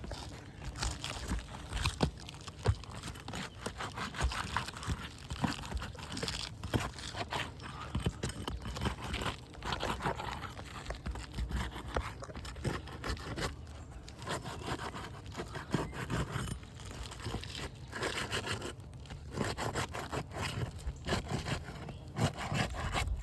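Asphalt roof shingles being lifted and worked loose to reach the nails beneath, with repeated irregular scraping, crunching and tearing as the sealed shingle tabs are broken free.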